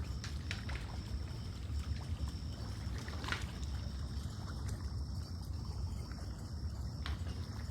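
Lake water lapping and trickling against the shore over a low rumble, with a few sharp little ticks and a thin, steady high whine above.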